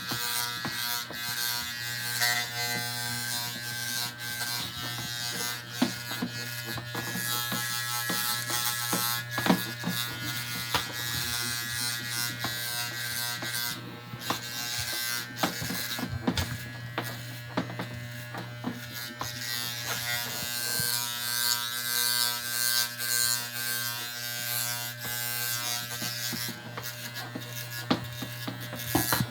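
Battery-powered electric hair cutter buzzing steadily as it cuts hair, with frequent short scratchy clicks as the blades pass through it.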